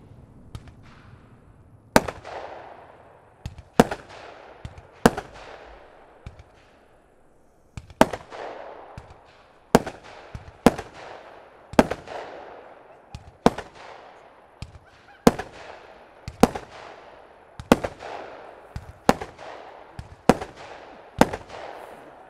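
Aerial fireworks heard from a distance, fired one after another: sharp bangs about once a second from about two seconds in, each followed by a fading echo.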